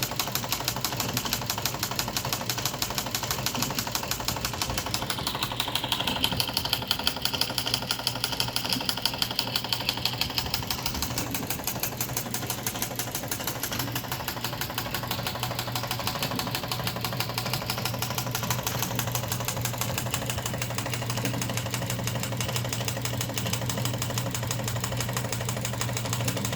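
A machine running steadily with a fast, even rhythmic clatter. A higher whine comes in for a few seconds in the first half.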